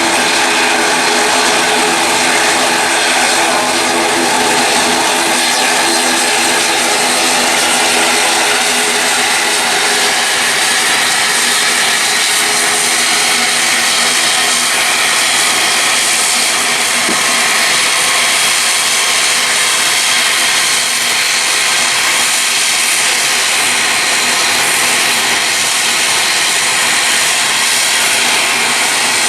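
Airliner engines running loud and steady. A cluster of steady tones rides on the noise and fades about ten seconds in.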